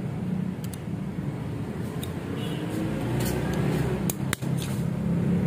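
Several light clicks of small metal parts being handled as Vespa clutch springs are fitted, over a steady low engine-like hum.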